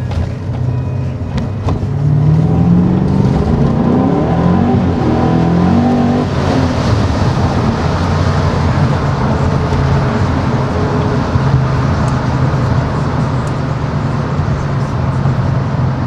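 BMW M5 with a Britalman aftermarket exhaust, heard from inside the cabin: the engine accelerates with its pitch climbing for a few seconds, then about six seconds in settles to a steady drone with more road and wind hiss.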